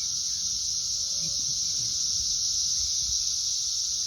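A chorus of periodical cicadas: a steady, loud, high-pitched drone of many insects calling at once, with no break.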